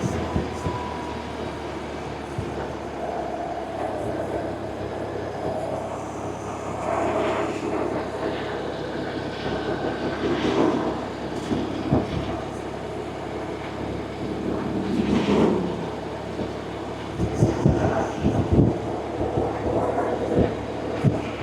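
BMW R1100RT's air/oil-cooled boxer (flat) twin engine running steadily while the motorcycle is ridden, with gusty rushing noise that grows in the last few seconds.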